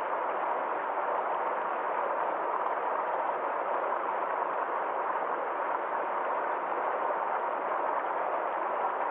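Water flowing steadily in a small forest stream: an even, unbroken rushing with no separate splashes.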